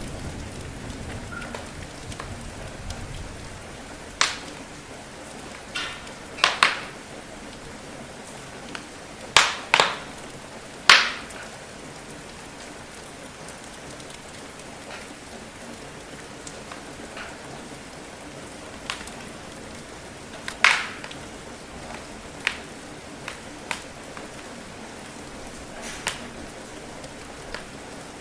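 Steady rain with a crackling wood fire: about eight sharp, loud pops, mostly in the first half, over the even hiss of the rain. The low tail of a thunder rumble fades out in the first few seconds.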